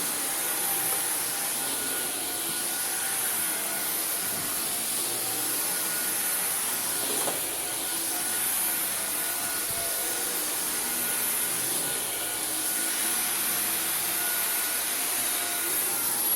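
Dyson V15 Detect cordless stick vacuum running on carpet: a steady high-pitched motor whine over the rushing of suction and the brush bar working through the pile. The motor's tones waver slightly, and the high whine dips a little near the end.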